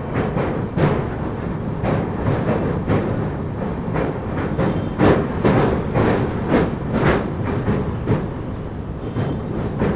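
Passenger train running across a riveted steel girder bridge, heard from an open coach doorway: a steady rumble of wheels on rails with irregular sharp clanks.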